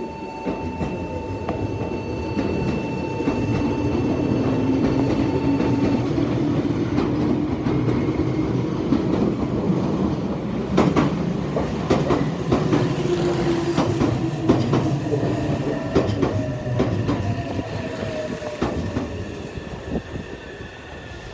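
Electric commuter train running past, its motor whine gliding in pitch as it swells and then fades, with wheels clacking over the rail joints. A steady high tone sounds alongside it and stops about six seconds in.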